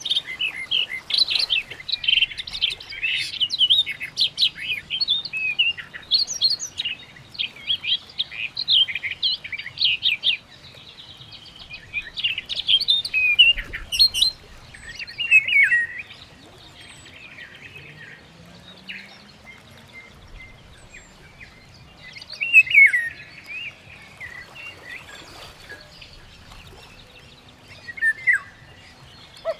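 Birds chirping and calling: a dense stream of quick high chirps for about the first ten seconds, then only scattered separate calls, several falling in pitch.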